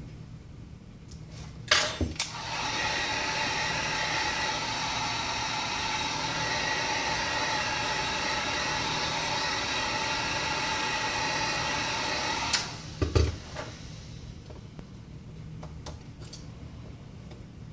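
Heat gun blowing steadily for about ten seconds, with a few sharp clicks and knocks just before it starts and just after it stops.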